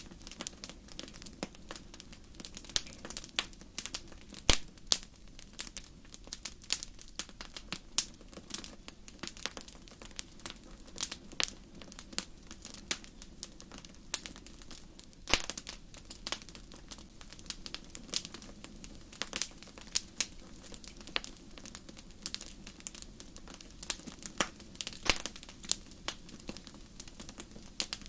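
Wood campfire crackling: irregular sharp pops and snaps, a couple of them much louder, over a faint steady low background.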